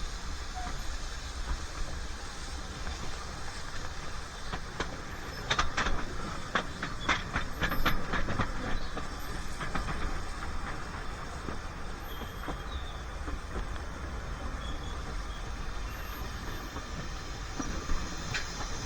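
Narrow-gauge train running along the track: a steady rumble and hiss, with a quick run of wheel clicks over the rails about a third of the way in.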